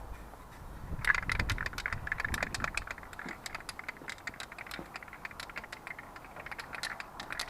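Paint being sprayed as a top coat: a steady hiss starts about a second in, with rapid irregular clicking and rattling throughout.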